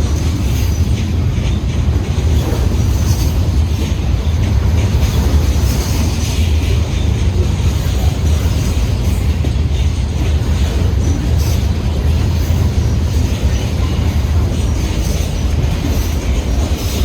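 Freight train cars rolling past, a steady loud rumble with scattered clicks of the wheels over the rail joints.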